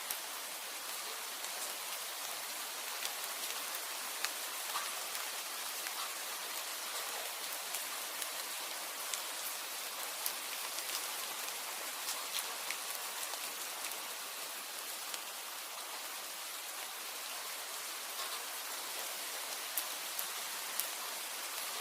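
Steady rain falling as an even hiss, with scattered sharp ticks throughout.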